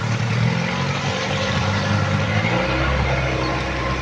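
An engine running steadily at an even pitch, under a loud, dense rushing noise.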